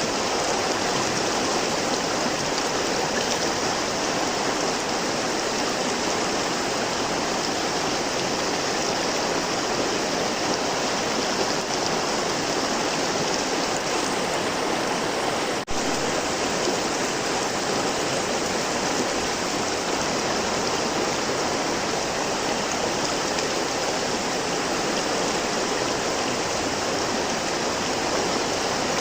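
River water flowing, a steady rushing with no change in level; the sound briefly drops out about halfway through.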